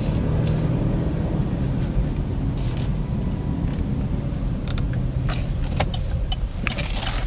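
Cabin noise of a 2013 Chevy Equinox with its 2.4-litre four-cylinder engine, moving: a steady low rumble of engine and road, with a few light clicks and ticks near the end.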